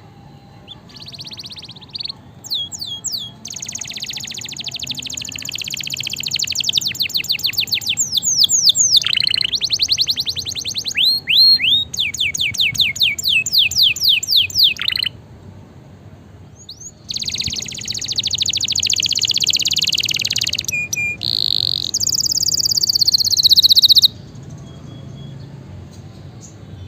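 Domestic canary singing: long phrases of fast, evenly repeated high notes and sweeping trills, broken by a short pause around the middle, with a higher, steadier strain near the end.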